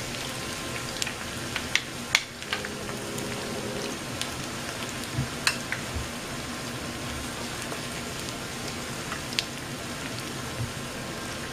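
Sliced onions and shrimp sizzling in hot oil in a frying pan, a steady hiss, with occasional sharp clicks as shrimp are placed into the pan with a wooden spatula.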